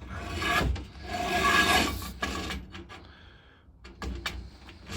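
Metal scraping and rasping against metal, two long strokes in the first couple of seconds, then light clinks and knocks and another short scrape near the end: a steel pipe being worked into bolted-on steel brackets.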